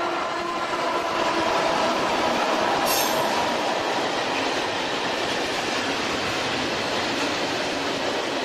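Freight train passing close by: an electric locomotive goes past with a steady whine, then its hopper wagons roll by in a continuous rumble and rattle of wheels on rail, with a sharp clank about three seconds in.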